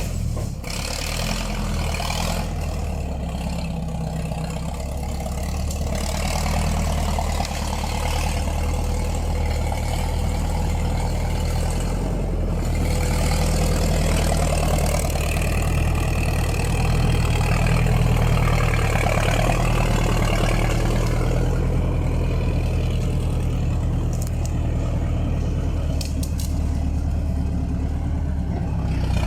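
A vehicle engine running steadily, with no sharp changes in speed.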